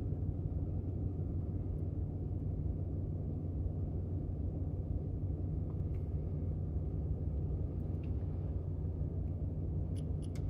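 Steady low mechanical hum with no change in pitch, and a few faint clicks near the end.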